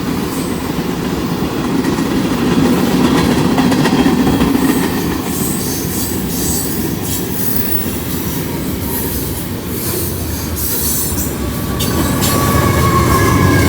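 Norfolk Southern freight train running at speed, heard from a car driving alongside and pacing it: a steady rumble of wheels on rail with scattered clicks, and near the end a few high steady tones that slide slightly lower.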